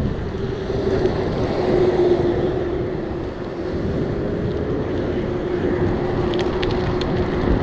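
Wind buffeting the microphone while riding a bicycle, with a steady hum underneath and a few faint clicks near the end.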